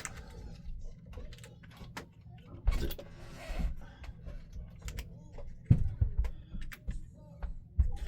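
Scattered clicks and knocks of tools and parts being handled on a workbench, with a brief hiss about three seconds in, over a steady low hum.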